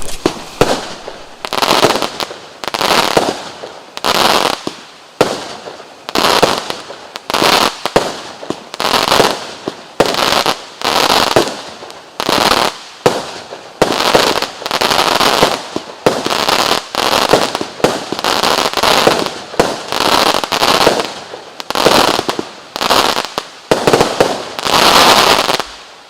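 Future Cyborg 25-shot firework cake with 26 mm tubes firing its shots one after another, about one a second, each a sharp report with a short trailing spread of noise. The volley stops suddenly near the end as the last tube fires.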